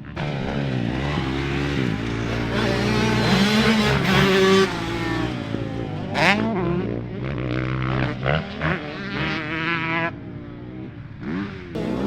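Dirt bike engine revving on and off the throttle, its pitch climbing and dropping again and again as it rides the track.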